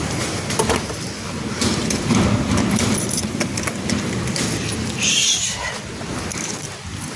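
Tornado wind blowing hard, a dense rushing noise with constant rattling and clattering of loose things and debris, and a brief hissing gust about five seconds in.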